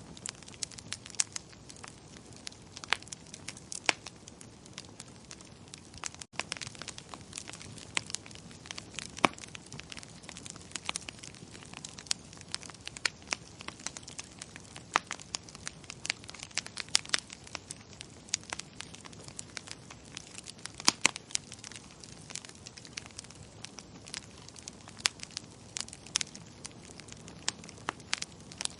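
Wood fire burning in a fireplace, crackling with irregular sharp pops and snaps over a steady low hiss.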